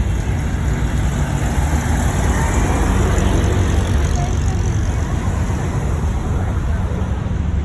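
Steady low rumble of car engines and road traffic, swelling a little in the middle.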